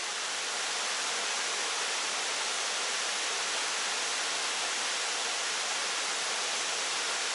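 Steady rush of water falling over a five-tier waterfall.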